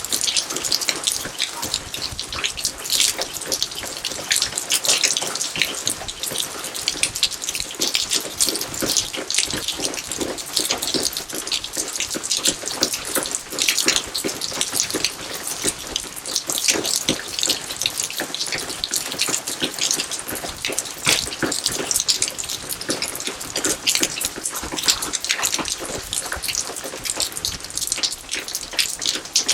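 Rain falling steadily: a dense, uneven patter of countless drops.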